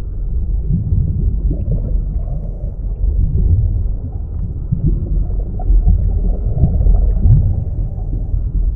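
Deep, muffled underwater rumble with gurgling, with a few short low swoops rising in pitch, about a second in, near the middle and later on.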